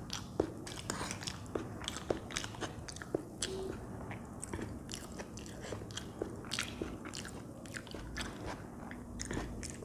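Close-miked chewing and slurping of Maggi instant noodles: a steady, irregular run of short wet mouth smacks and clicks.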